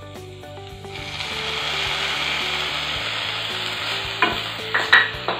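Chopped onion and green chilies sizzling in hot oil in a pan; about a second in the sizzle grows louder as sliced tomato goes in. A wooden spatula stirs, knocking against the pan a few times near the end.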